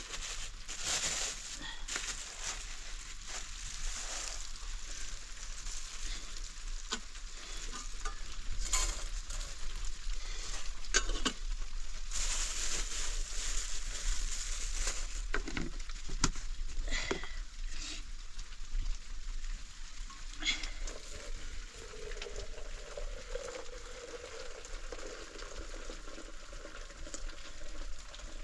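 A steady sizzle like food frying in a pan, with scattered sharp clicks and scrapes. About two-thirds of the way in, a faint steady low hum joins it.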